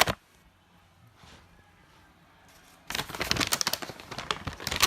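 A sharp click right at the start, then, about three seconds in, a couple of seconds of dense, irregular crinkling and rustling of paper or cardboard packaging being rummaged through.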